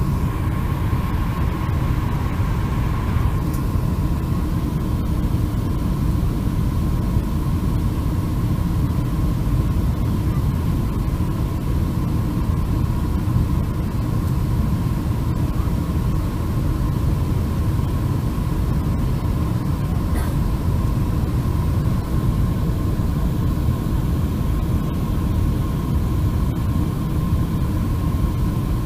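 Steady low rumble with a constant mid-pitched hum: the cabin noise of a Boeing 747-400 airliner in flight.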